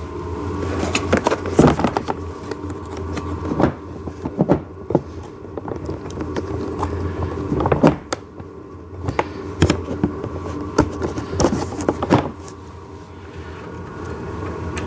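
Irregular clicks and knocks of plastic and metal parts being handled as a small axle pin is worked through the pivot holes of a ride-on toy excavator's bucket, over a steady low hum.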